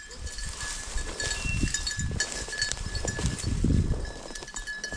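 Small bells on hunting dogs jingling as the dogs work the cover, over the irregular low thuds and rustle of walking through field cover.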